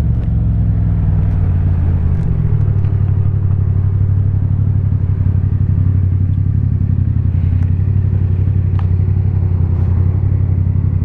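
2018 Yamaha MT-07's parallel-twin engine, fitted with an Akrapovic titanium exhaust, running with a steady low note. The note shifts slightly about two seconds in.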